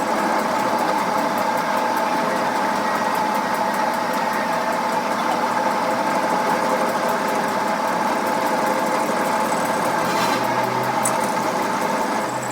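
Workshop machine running steadily: a dense mechanical noise with a constant hum-like tone.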